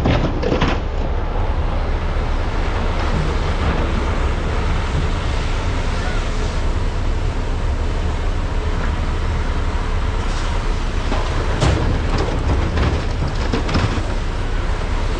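Diesel engines of large hydraulic mining excavators running under load, a steady heavy rumble. Short sharp knocks come about half a second in and several times near the end, as buckets and material strike.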